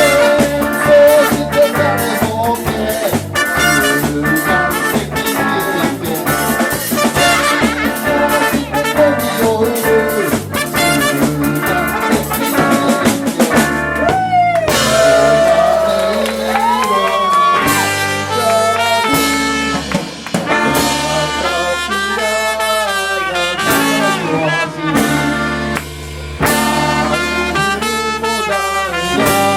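Live band playing an instrumental passage, with brass horns over a drum kit. About halfway through, the beat changes and a lead line bends up and down in pitch.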